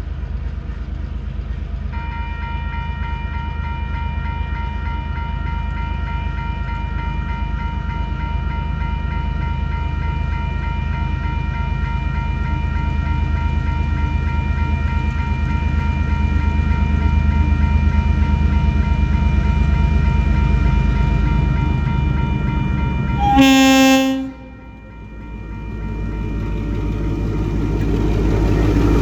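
TasRail diesel locomotive TR14 and its cement wagons rumbling past, growing louder, with a steady high whine over the engine. About 23 seconds in comes a short, loud horn blast. Then the sound drops away suddenly and the rumble builds again.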